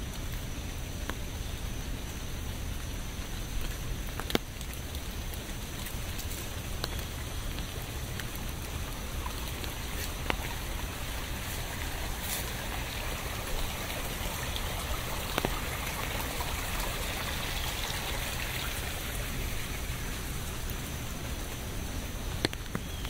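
Steady rain falling, with a few louder single drops ticking sharply now and then.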